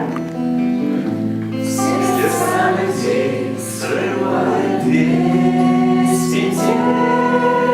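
A choir singing a slow song in long held chords, with the chord changing about a second in and again about five seconds in.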